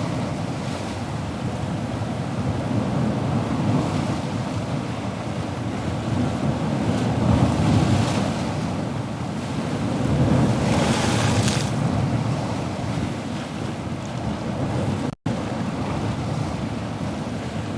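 Ocean surf: a steady low rumble of waves, with one wave breaking into a louder hiss about eleven seconds in. The sound cuts out for an instant about fifteen seconds in.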